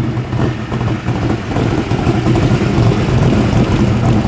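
Car engine running loudly and steadily at low revs, getting a little louder about two seconds in.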